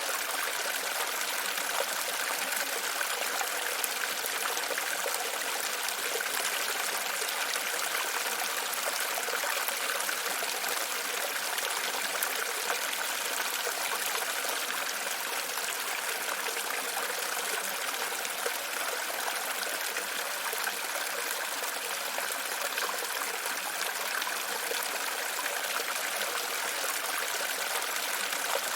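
Running water, a steady trickling and splashing with no pauses.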